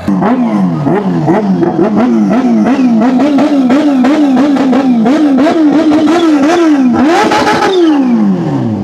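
Kawasaki superbike's inline-four engine revved repeatedly, the throttle blipped about twice a second so the pitch climbs and falls in quick succession. Near the end it takes one longer, higher rev and then drops back toward idle.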